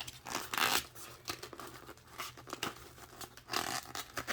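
Packaging being torn open and crinkled by hand: bursts of tearing and rustling, loudest about half a second in and again near the end, with small crackles between.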